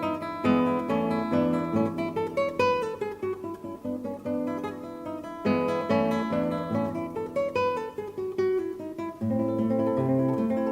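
Background music: acoustic guitar played with plucked notes and strums.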